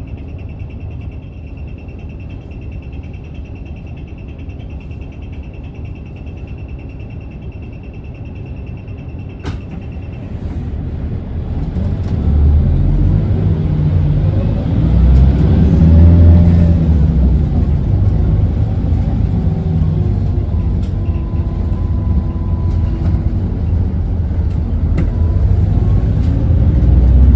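Isuzu Erga city bus's four-cylinder diesel, heard from inside the cabin: idling with a rather loud idle noise and a steady thin high tone that stops with a click about ten seconds in, then revving up as the bus pulls away, its pitch rising and falling in steps as it accelerates.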